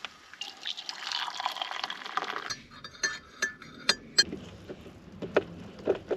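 Hot water poured from a thermos flask into a container, the pour rising in pitch for about two seconds, followed by a series of sharp clicks and knocks as things are handled.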